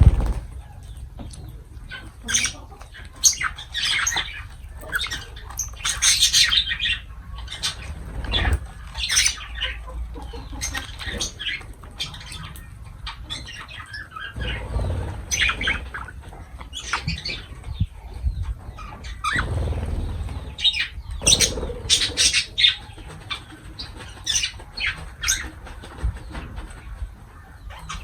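Lovebirds chattering: clusters of short, sharp, high-pitched chirps and squawks, broken by a few low thumps.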